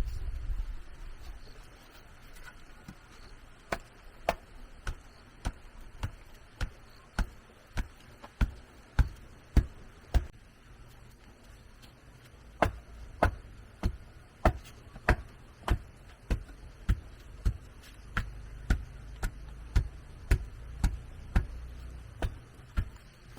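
Steady, evenly paced blows of a hand tool on wood or bamboo, about two a second, in two long runs with a short pause between.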